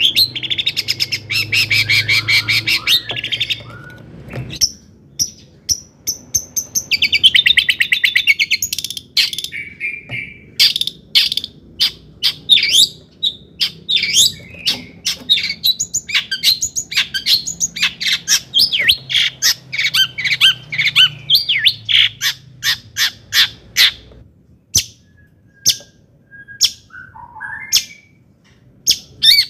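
Long-tailed shrike (cendet) singing: two bursts of fast, harsh rattling trills, then a long run of quick, sharp separate notes, with a few thin whistled notes near the end.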